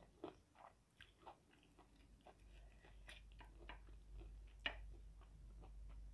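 Quiet close-up chewing of a mouthful of fried chicken: an irregular run of small wet clicks and crackles, with one sharper click about three-quarters of the way through.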